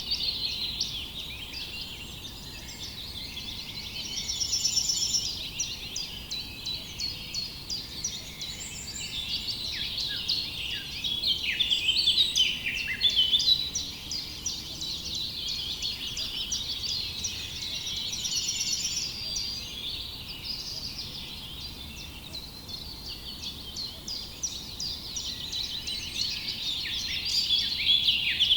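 A chorus of many small birds chirping and twittering at once, dense and continuous, swelling and easing in waves.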